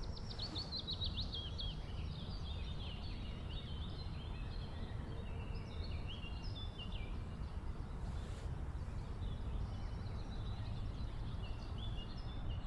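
Songbirds chirping and trilling, a dense run of quick calls at the start and scattered calls after, over a steady low rumble.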